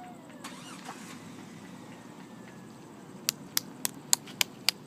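Fireworks popping in a quick run of sharp cracks, about three to four a second, starting a little over halfway through.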